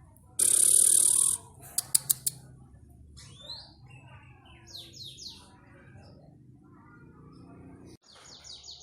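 Domestic panda canary singing: scattered quick rising chirps, then a fast rolling trill of rapidly repeated high notes near the end. Early on a loud hissing burst of about a second is followed by three sharp ticks.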